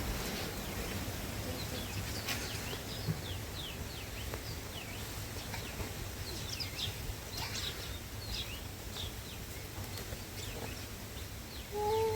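Small birds chirping repeatedly in quick short notes over a steady low rumble of wind. Near the end a lower held call comes in.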